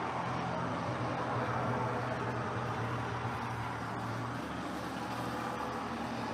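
A motor vehicle engine humming over steady outdoor noise; the hum drops lower about four and a half seconds in.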